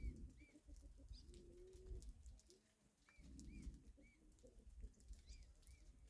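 Faint low cooing of a dove in a few short phrases, with short high chirps from a small bird repeating now and then.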